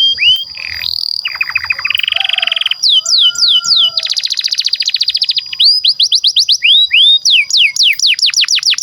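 Canary singing a long, continuous song: fast rolling trills alternating with series of quick, steeply falling whistled notes, over a steady high held tone.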